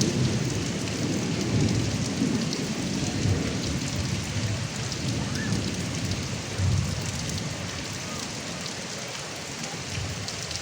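Heavy rain spattering and running off a roof gutter spout, with low thunder rumbling and slowly fading away. A bird chirps faintly about halfway through.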